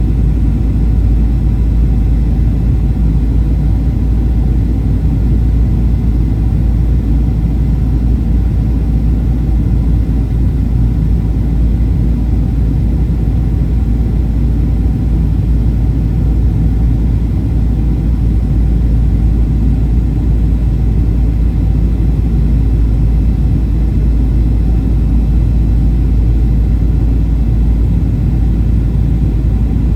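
Boeing 737-800 cabin noise: a steady low rumble of the engines and airflow, even throughout, with faint steady tones above it.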